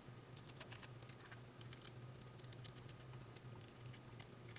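Faint, scattered small clicks and scrapes of a Phillips screwdriver backing small screws out of a laptop hard drive's metal mounting caddy, over a faint steady low hum.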